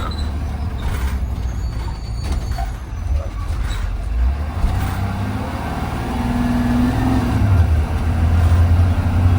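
A 2020 Blue Bird Vision school bus's engine running as the bus drives, heard from inside the bus: a steady low drone with road noise that swells louder in the last few seconds.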